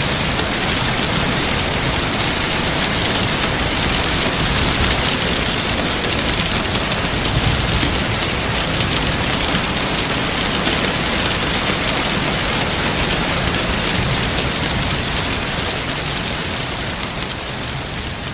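Heavy rain falling steadily, a dense even hiss of drops on surfaces, dropping slightly in level near the end.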